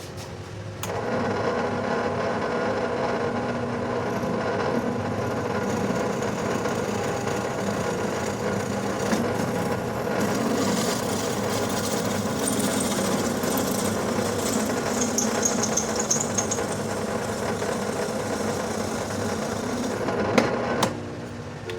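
Electric drill running and boring pin holes through a knife handle and tang. It starts about a second in, holds steady with a brief high squeal partway through, and stops near the end.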